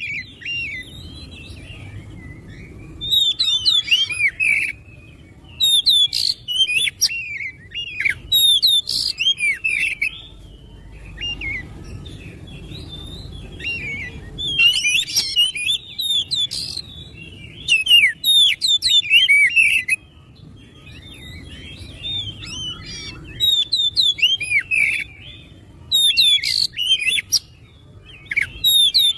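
Oriental magpie-robin (kacer) singing in fast, varied whistled phrases of one to two seconds each, repeated with short pauses between them, over a faint low rumble.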